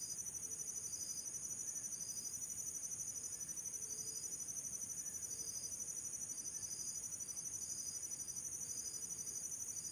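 Chorus of crickets or other insects: a steady high pulsing trill, with short chirps repeating every half second or so.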